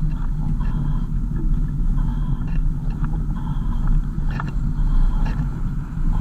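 Car driving along: a steady low rumble of engine and road noise, with short light knocks or rattles about once a second.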